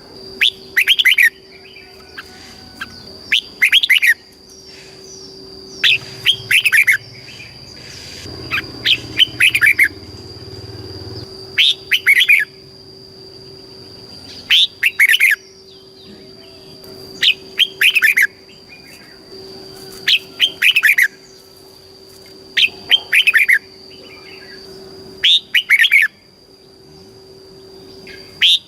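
Red-whiskered bulbul singing: loud, short phrases of a few quick sliding notes, coming in pairs about every two to three seconds. It is the kind of song played to caged bulbuls to train them or get them excited to sing.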